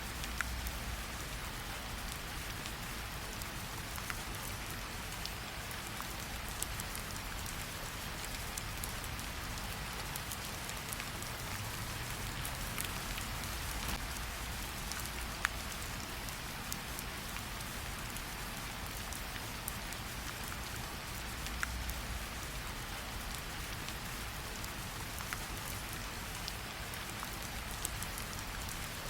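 Steady rain falling, with scattered sharp pops and crackles from a campfire and a soft low rumble that swells now and then.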